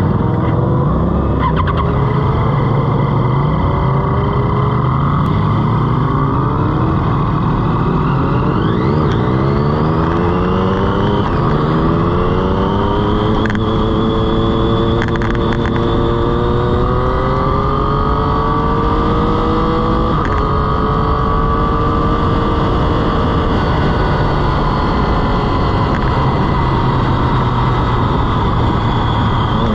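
Sport motorcycle engine heard from on board, running low and steady at first, then revving up from about eight seconds in, the pitch rising in steps broken by upshifts as the bike accelerates onto the track.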